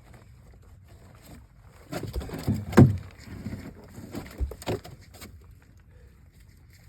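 A cluster of knocks and thumps in a small fishing boat, loudest about three seconds in.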